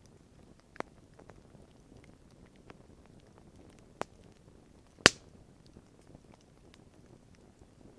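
Wood campfire crackling faintly, with a few scattered sharp pops, the loudest about five seconds in.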